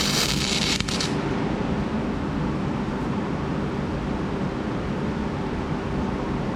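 Flux-core arc welding crackle from a wire-feed welder, a dense frying hiss that cuts off about a second in as the arc stops. A steady low rumbling background noise continues after it.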